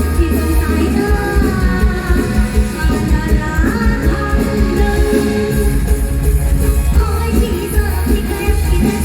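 Live mor lam band music: a singer with the band over a heavy, steady bass beat.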